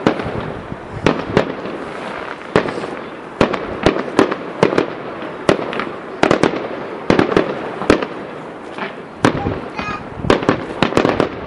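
Fireworks display: aerial shells bursting in irregular succession, a sharp bang every half second to second and sometimes several in quick clusters, over a continuous noisy wash.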